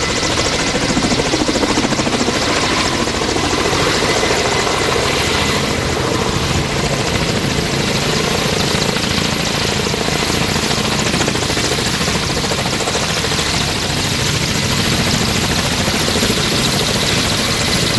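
Kamov Ka-32 helicopter running close by, its twin turboshaft engines and coaxial rotors giving a loud, steady, fast rotor beat with a thin high whine above it.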